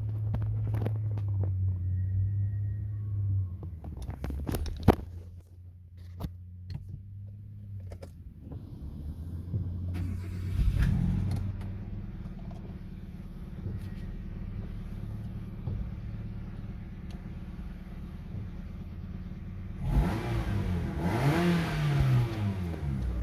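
Kia Rio 2's 1.4-litre G4EE four-cylinder petrol engine idling, revved briefly about ten seconds in and revved up and down again near the end. A few sharp clicks come around four to five seconds in.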